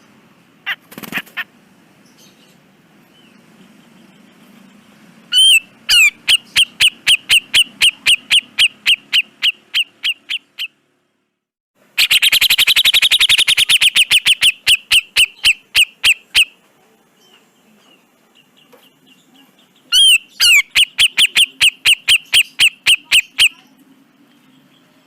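Grey-cheeked bulbul (cucak jenggot) song: a few short calls, then three long runs of fast, harsh, rapidly repeated notes, about four to five a second, the middle run the densest and loudest.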